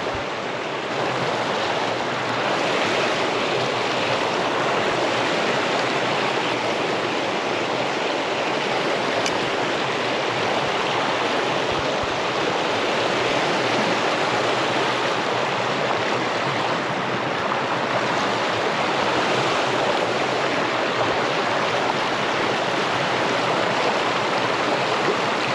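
Creek water running steadily, a constant even rush of the current.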